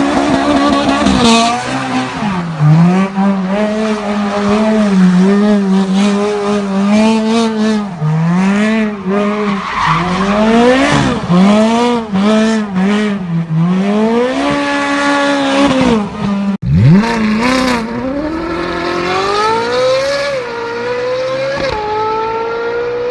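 Car engines revving hard, their pitch rising and falling again and again, with tyres squealing through powerslides and drifts. About seventeen seconds in, one car accelerates hard, climbing in pitch and shifting up twice.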